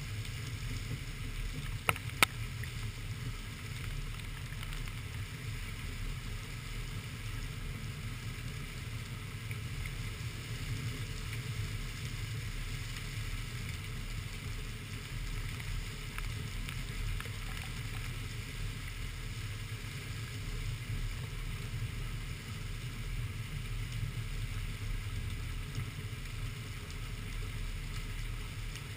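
Heavy rain falling steadily, heard as an even hiss over a low, muffled rumble. Two sharp ticks stand out about two seconds in.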